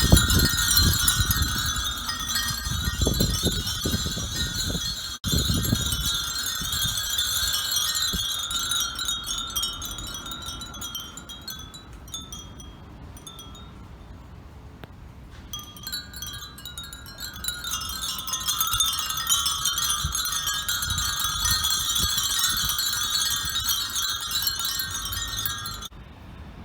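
Dozens of Japanese furin wind bells hanging together, tinkling continuously as they swing. Their bright overlapping tones thin out about halfway through, then swell again. A low rumble sits under the first few seconds.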